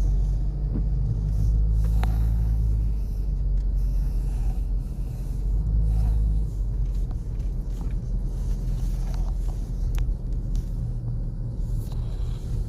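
Steady low rumble of a running vehicle's engine and road noise, with a few faint clicks.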